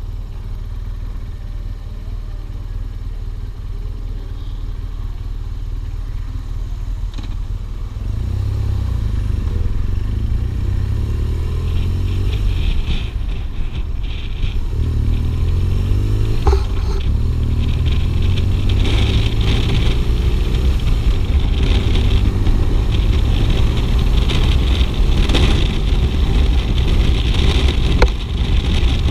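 BMW R 1200 GS flat-twin boxer engine running while the motorcycle is ridden, getting louder about eight seconds in as it accelerates, its pitch rising and stepping down again with gear changes. Two brief sharp knocks come about halfway through and near the end.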